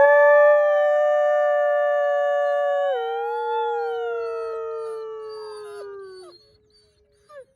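A wolf howling: one long howl that holds a steady pitch, drops to a lower note about three seconds in, then slides slowly down and fades out, with a few faint short higher calls near the end.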